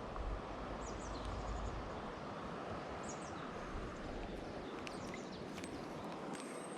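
Steady rush of a shallow mountain stream flowing over rocks, with a few short, high bird chirps about a second in and again about three seconds in.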